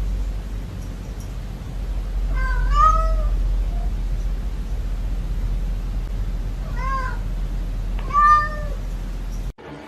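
Domestic cat meowing three times, short arched calls that rise and fall in pitch, over a steady low hum; the sound cuts off abruptly near the end.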